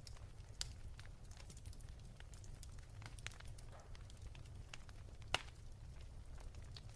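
Wood fire crackling softly: irregular small pops and snaps over a low steady rumble, with one sharper pop about five seconds in.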